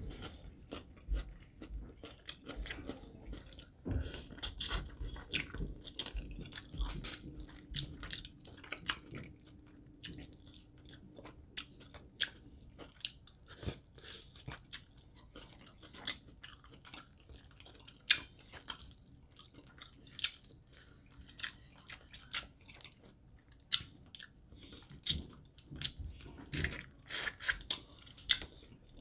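A person chewing food, with irregular wet clicks and crunches, and a run of louder ones near the end.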